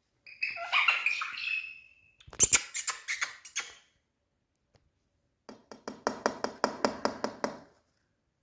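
A pet parrot calling: a short pitched chatter, then a run of sharp clicks, and later a rapid pulsing chatter of about six pulses a second.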